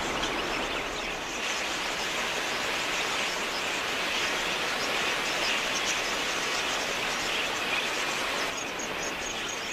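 A large flock of wild budgerigars chattering at once, a dense steady wash of high chirps.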